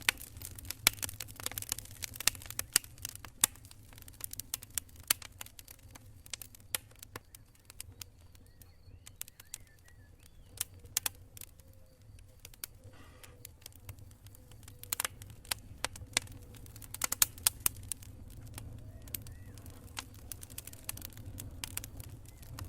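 Wood campfire crackling, with sharp pops and snaps that come thick at first, thin out in the middle and bunch up again later, over a low steady rumble.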